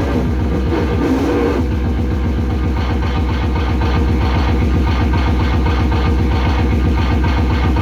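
Loud live harsh noise music: a heavily distorted electronic bass drone pulsing rapidly and evenly, under a dense wash of distorted noise.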